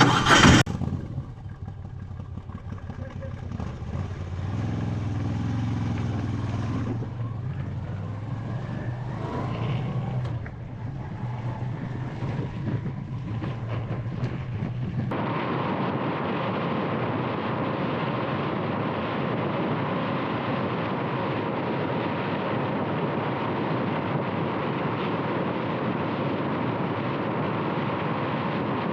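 Moto Guzzi V85 TT's air-cooled transverse V-twin engine running and pulling away, after a loud clatter right at the start. About halfway through this gives way to a steady rush of wind and road noise on the helmet microphone while riding at speed.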